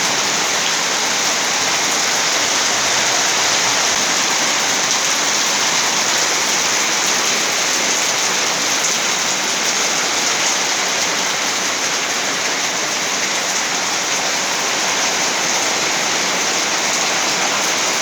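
Rain falling steadily as an even, unbroken hiss.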